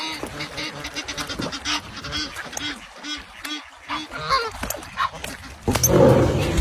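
Waterfowl calling: many short, rapid honks and quacks in quick succession. Near the end a louder, deeper sound cuts in suddenly.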